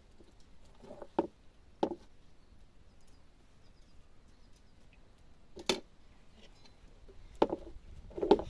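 A handful of short, sharp knocks or taps at irregular intervals, about five in all, the loudest just before the six-second mark.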